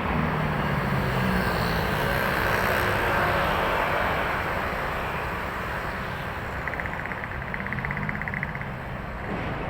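Heavy trucks and other traffic passing on a highway: engines running under a steady roar of tyre noise, loudest in the first few seconds and then easing off. A rapidly pulsing higher tone is heard for a second or two about seven seconds in.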